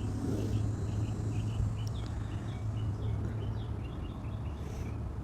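Small bird chirping repeatedly in short high notes, several a second, over a steady low rumble.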